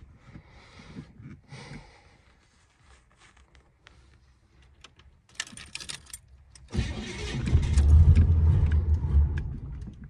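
Car key clicking in the ignition, then the starter cranking a cold engine in a pulsing churn for about three seconds without it catching: a car that has sat unused in the cold and won't start.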